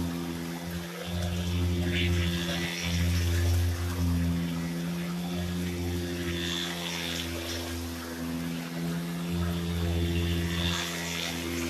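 Small 50cc Coolster dirtbike engine running at a fairly steady pitch. Its level rises and falls, with a couple of brief dips in the first three seconds.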